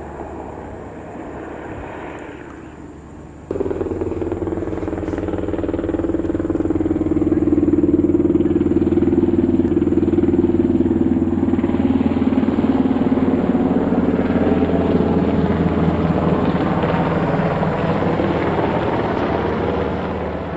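Helicopter flying low overhead: a steady hum of the rotor and turbine, jumping sharply louder about three and a half seconds in and then staying loud with a rapid blade chop, easing off only near the end.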